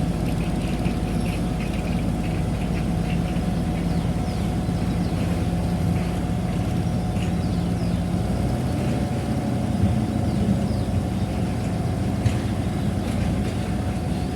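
Heavy diesel engine of earthmoving machinery running steadily at a constant note, with short faint high squeaks over it in the first half.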